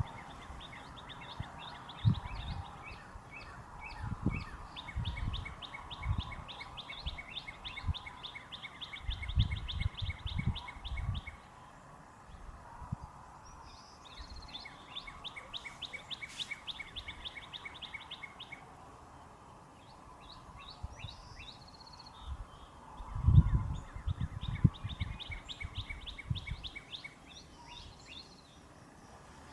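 Northern cardinal singing: four phrases of fast, evenly repeated down-slurred whistled notes, separated by short pauses. Low thuds come and go underneath, the loudest cluster about three-quarters of the way through.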